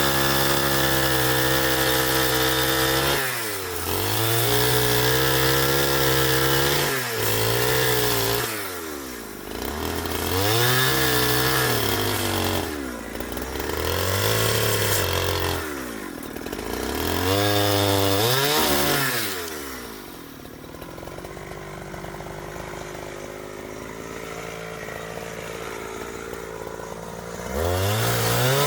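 Two-stroke chainsaw cutting wood, its engine pitch dipping and climbing again and again as the chain bites and clears. It then falls back to a quieter idle for several seconds and revs up again near the end.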